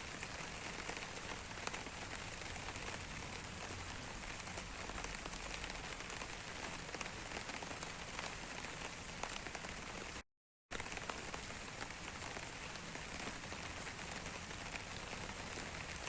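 Steady rain, many small drops pattering on a surface. The sound cuts out completely for about half a second roughly ten seconds in, then resumes.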